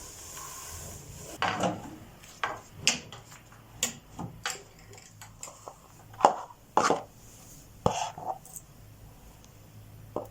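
A series of light wooden knocks and clatters as things are handled and set down in a dresser drawer. There are about a dozen sharp strikes, the loudest a little past the middle, and one more near the end.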